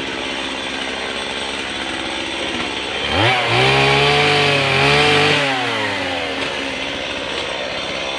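Chainsaw running at a low steady speed, revved up sharply about three seconds in, held at high speed for a couple of seconds, then dropping back to a steady lower speed.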